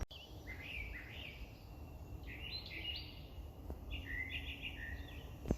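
Small songbird chirping outdoors: several quick groups of short, sliding notes, over a low rumble.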